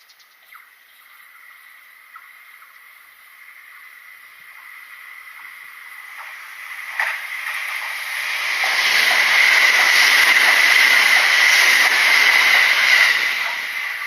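Kintetsu Nagoya Line electric train approaching and passing close by: its rumble builds over several seconds, stays loud for about four seconds with a steady high ringing tone in it, then starts to fade near the end.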